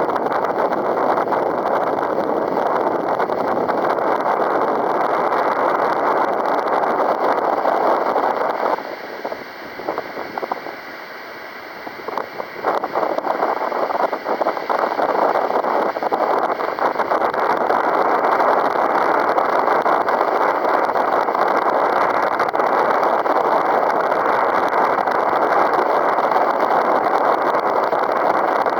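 Strong wind rushing and buffeting the microphone, a loud steady roar that eases off for a few seconds about nine seconds in, then picks back up.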